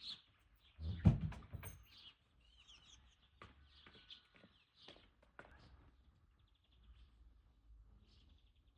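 Small birds chirping, with scattered sharp clicks and one louder thump about a second in.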